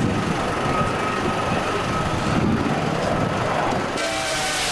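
Steady engine noise: a rough rumble under a constant high whine. About four seconds in, the sound changes abruptly to engine tones that fall steadily in pitch.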